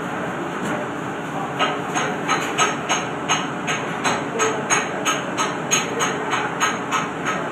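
TIG welding arc: a steady hiss with a regular pulsing, about three pulses a second, that starts about a second and a half in.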